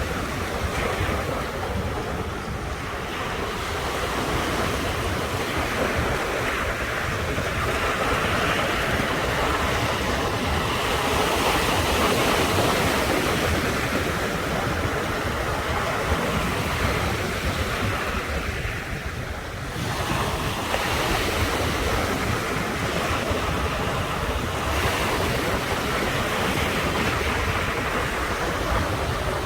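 Ocean surf breaking and washing ashore in a continuous rush, swelling louder around the middle and easing briefly about two-thirds through, with low wind rumble on the microphone.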